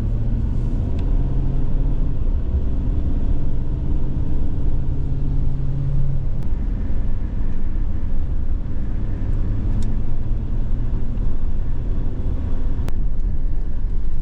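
Car driving on a road, heard from inside: a steady low rumble of engine and tyres, with the engine hum easing off about six seconds in and picking up again a few seconds later.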